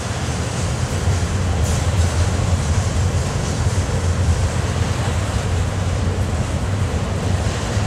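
Norfolk Southern mixed freight train's cars rolling past: a steady rumble of steel wheels on rail with a strong low hum.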